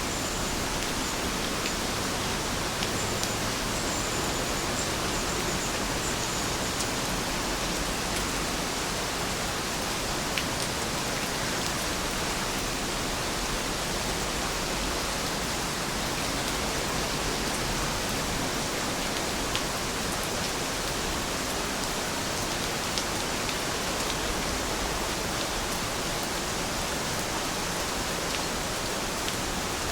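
Steady rain falling, an even hiss with occasional louder drop ticks. A faint, high series of chirps sounds over it during the first several seconds.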